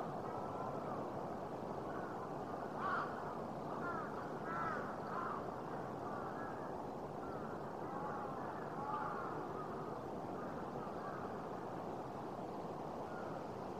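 Birds calling, in short arching calls that come in clusters every few seconds, over a steady rushing background noise.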